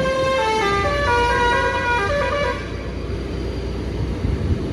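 A truck's basuri musical horn plays a short tune of stepped, held notes for about two and a half seconds. It then stops, leaving the low rumble of the passing truck's engine.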